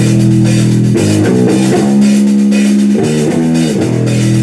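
Live rock band playing an instrumental passage on electric guitar, bass and drum kit, with sustained chords that change every second or two.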